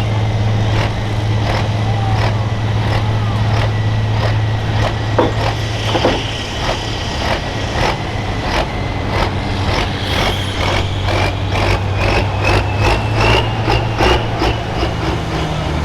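Farm tractor's diesel engine running steadily and loud, with a thin high whine that climbs in pitch over the second half, over a run of sharp clicks that come faster toward the end.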